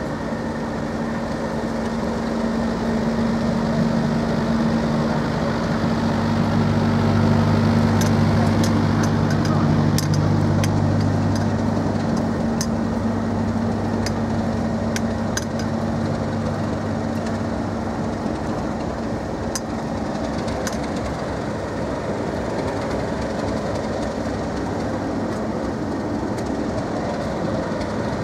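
A train of yellow test-train coaches rolling past, hauled by Class 37 diesel locomotives, with the locomotive engine's steady drone swelling in the first half and fading out after the middle. Sharp clicks of the wheels over the rails come through while the drone is at its loudest.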